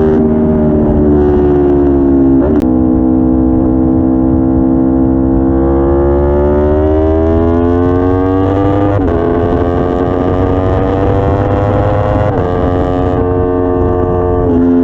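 Aprilia RSV4 V4 engine running at low, steady revs. The pitch rises slowly for a few seconds, then drops abruptly about nine seconds in, with further sudden small shifts up and down. The owner asks whether it is misfiring, a problem that appeared after new spark plugs and a valve check.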